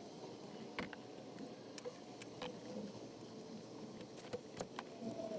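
A few scattered light clicks and knocks of tools and parts being handled during engine reassembly, over a steady low background hum.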